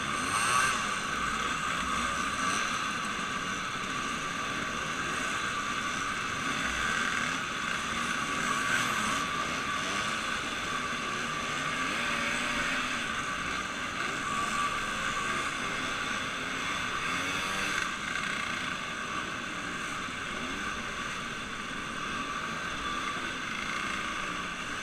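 Motorboat engine running steadily at constant speed, a continuous drone with a steady whine.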